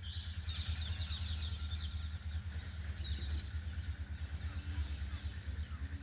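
Birds chirping in quick high runs, thickest in the first two seconds and again about three seconds in, over a steady low rumble.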